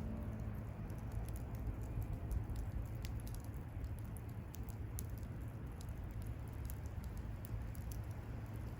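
Wood campfire burning, with a rapid, irregular crackle of small pops over a low rumble.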